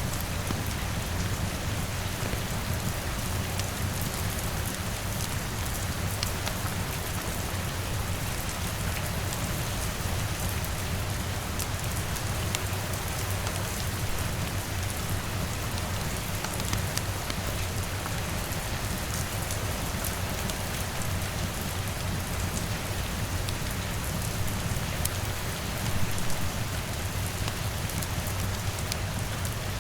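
Steady rain falling on a window and roof, a continuous hiss with a low rumble beneath and scattered sharp crackles from a wood fire. The sound briefly swells louder near the end.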